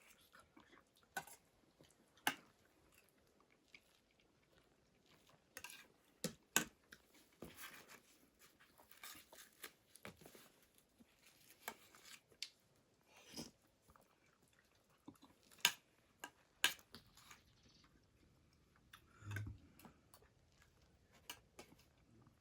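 People eating quietly: chewing and biting, with irregular sharp clicks and taps, the loudest a pair about two thirds of the way through.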